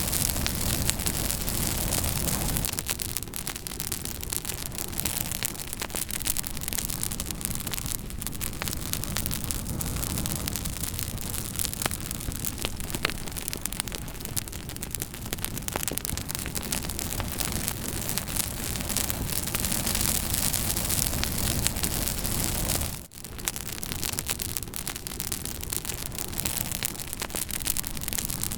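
Campfire burning with many small crackles and pops over a steady rushing noise. The sound drops out for a split second about three quarters of the way through.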